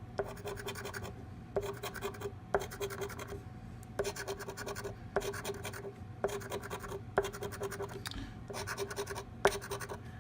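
A coin scratching the latex coating off a lottery scratch-off ticket in repeated short strokes, each about half a second to a second long with brief pauses between.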